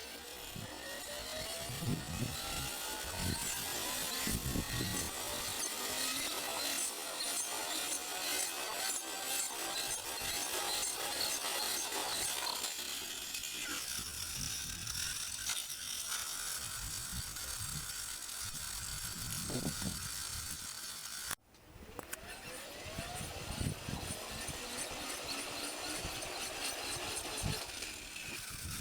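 Evel Knievel Stunt Cycle toy's hand-cranked gyro launcher whirring, its pitch rising slowly as the flywheel spins up, then starting again after a break about two-thirds of the way in. Low gusts of wind buffet the microphone throughout.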